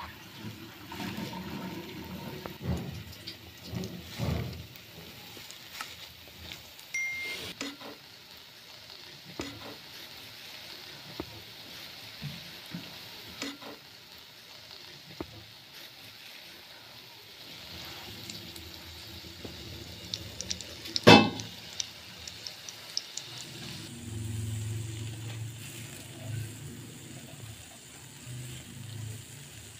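Strips of yeast dough sizzling as they fry in shallow oil in a non-stick frying pan, with scattered scrapes and taps of a spatula against the pan. One sharp knock stands out about two-thirds of the way through.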